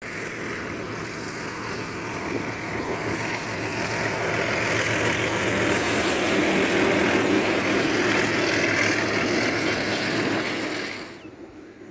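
Hitachi diesel locomotives, a PHA-20 leading, hauling a passenger train past at speed. Engine drone and rail noise build as the train approaches and are loudest as the locomotives go by, then the coaches run past over the rails. The sound drops off suddenly near the end.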